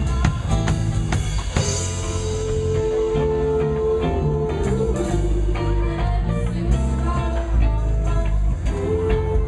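A live band playing a song with electric guitar, bass and drum kit, with a held guitar or vocal note over a steady beat.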